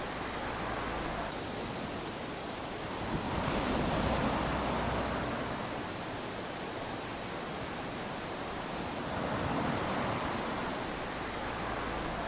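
Small waves lapping onto a sandy shore: a steady wash of surf that swells louder twice, about three seconds in and again near ten seconds, as waves run up the sand.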